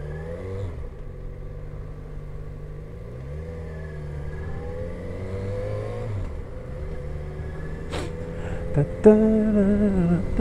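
Motorcycle engine running under way, its revs climbing and then dropping back several times as it changes gear. There is a sharp click about eight seconds in, and the engine gets louder near the end.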